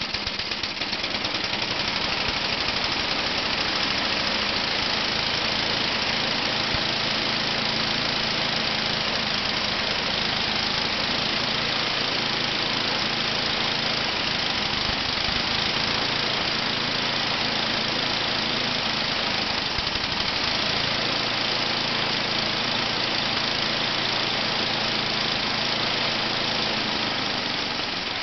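Toro 824 XL snowblower's 8 hp Tecumseh single-cylinder four-stroke engine running steadily just after a cold start on the first pull, after sitting about ten months.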